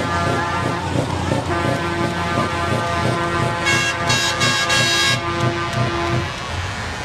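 Lorry engines running with a steady low throb, and about halfway through a truck air horn sounds in about four short blasts.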